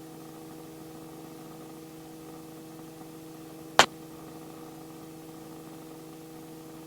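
Steady electrical hum from the helicopter's intercom audio feed, a few fixed tones over a faint hiss, with one sharp click about four seconds in.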